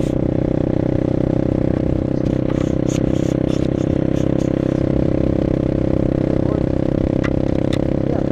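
Vehicle engine running at a steady speed, a constant hum with a few faint clicks and clatters over it.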